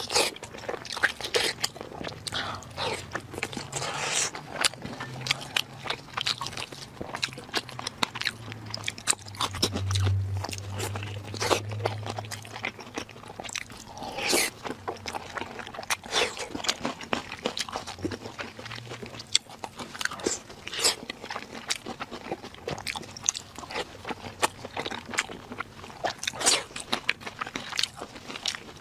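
Close-miked eating sounds: a person biting and chewing crunchy food, with many sharp, irregular crunches.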